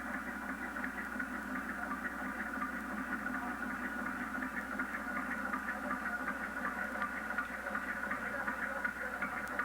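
A small motor-driven scale model engine mechanism running steadily, with a rapid, even ticking from its moving parts over a steady hiss.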